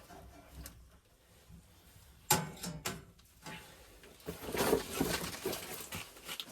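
Close handling sounds: a sharp knock about two seconds in, a few smaller clicks, then about two seconds of rustling and scraping.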